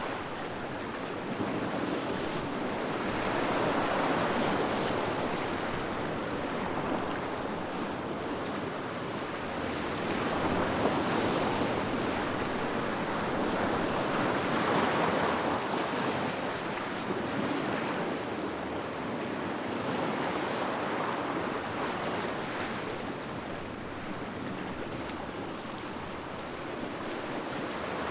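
Sea waves breaking and washing on the shore, a continuous surf that swells and ebbs every few seconds.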